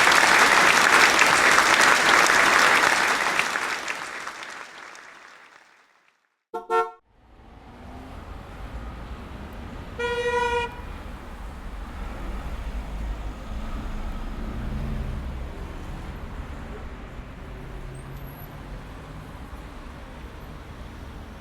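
A loud rushing noise fades away over the first five seconds or so, then a steady low road rumble of a vehicle sets in. A car horn sounds once, briefly, about ten seconds in.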